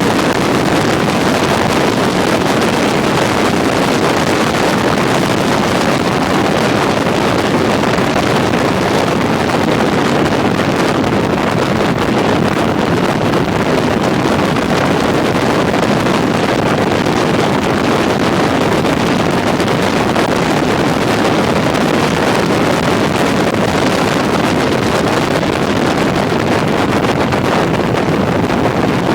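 Steady rush of wind on the microphone over road and engine noise from a motorcycle riding along at speed.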